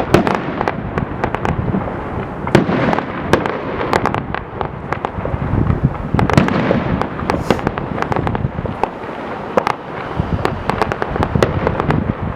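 Fireworks going off in a dense, irregular barrage of bangs and crackles, overlapping with no let-up.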